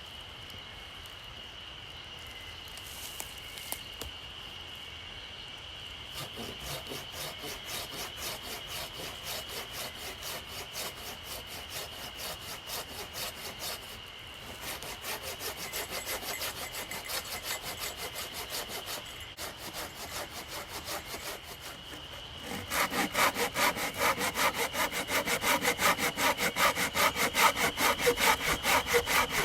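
Hand saw cutting through fallen-tree wood in quick, rhythmic back-and-forth strokes. It starts about six seconds in, stops twice briefly, and comes back much louder for the last several seconds.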